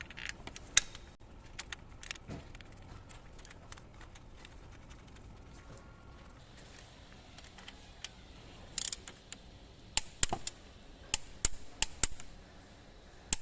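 Sharp metallic clicks and clinks of hand tools and engine parts being handled during engine work: one near the start, then a quick run of them, about three a second, near the end.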